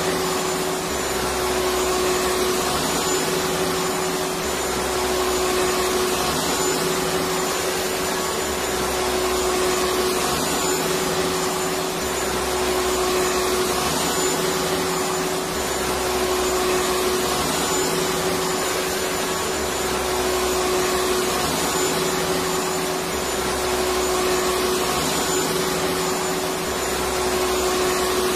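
Electric vacuum cleaner running continuously: a steady, even whooshing hum with a constant motor tone. A faint low pulse recurs about every four seconds.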